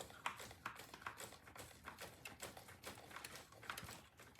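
Light, irregular clicking and tapping, several a second, from hands working the starter area of a small gas scooter.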